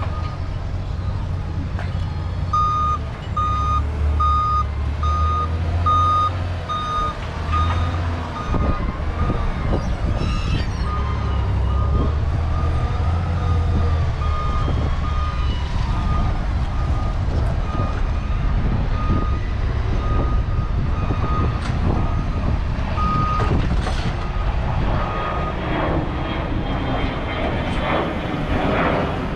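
Heavy vehicle's reversing alarm beeping about twice a second, loudest in the first third and fading later, over the low rumble of an engine running.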